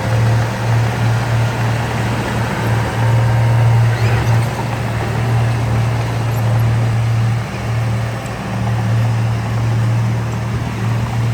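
Heavy diesel engine of earthmoving machinery running steadily under load, a constant deep hum over a rough mechanical noise.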